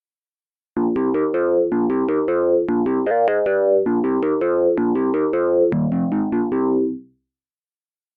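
GForce Minimonsta 2, a software emulation of the Minimoog analog synthesizer, playing a sound-bank patch: a fast run of short, sharply struck synth notes that starts about a second in and stops near the end.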